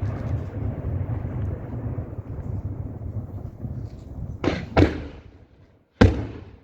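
Daylight fireworks shells exploding: a long rolling rumble of blast echoes, then two sharp bangs in quick succession about four and a half seconds in, and a louder bang about six seconds in.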